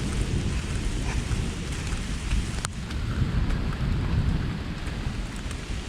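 Thunder rumbling low and long through steady rain, with raindrops ticking close by and one sharper tick about two and a half seconds in. The rumble fades near the end.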